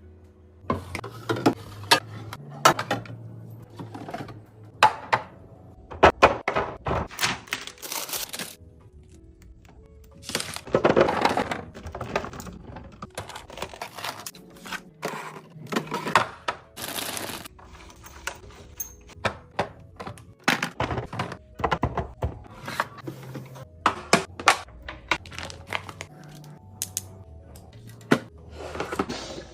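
Repeated sharp clicks and knocks of containers and food items being handled and set down while a refrigerator is stocked, over soft background music.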